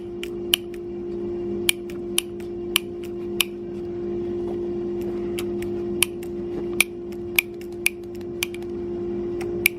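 Light, separate taps, about a dozen, on the permanent magnets inside a longboard hub motor's rotor, each magnet struck in turn to find by its sound whether it is loose. The taps all sound alike, so the magnets are judged secure. A steady low hum runs underneath.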